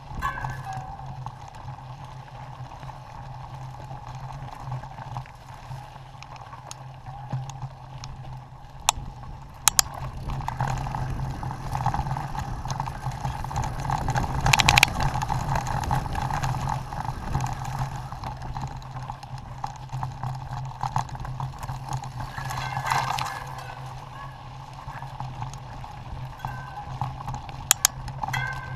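Mountain bike being ridden on a dirt trail: steady tyre and drivetrain noise with a few sharp rattling clicks, louder for a few seconds in the middle.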